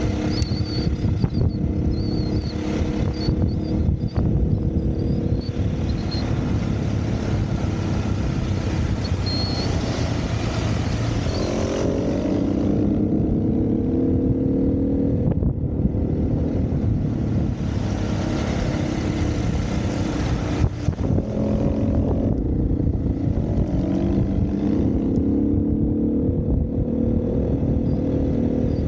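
Dirt bike engine running on the move, its pitch rising and falling as the throttle opens and closes, over a steady rush of noise.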